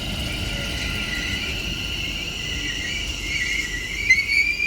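A doubled-up Class 730 electric multiple unit pulling into a station. A low rumble of wheels on track runs under a high, steady whine that rises in pitch near the end.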